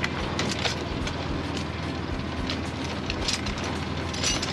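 An engine running steadily at idle, a low continuous drone, with scattered light clicks and taps over it.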